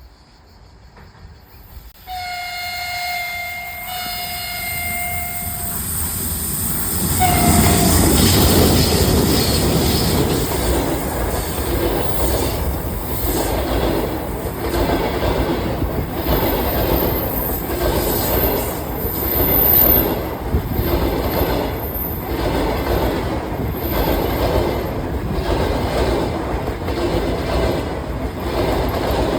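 A passenger train's horn sounds two long blasts and a short one, then the train runs past with a loud rumble and a regular clickety-clack of wheels over the rail joints. There is a faint high wheel squeal in the middle of the pass.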